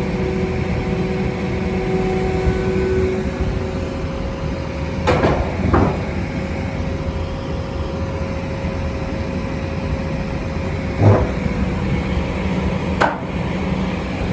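Farm diesel engine running steadily while the corn head is loaded, with four sharp metal clunks: two close together about midway, one near 11 seconds and one near the end.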